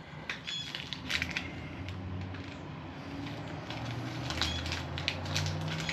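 Small clicks and crackling rustles of hands handling deadbolt lock parts, over a low steady hum that grows louder in the second half.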